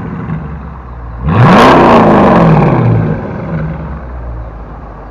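Dodge Challenger V8 with its mid-muffler deleted: the exhaust drones low, then about a second in a quick stab of throttle sends the pitch sharply up and loud, falling away over a second and a half back to a quieter drone.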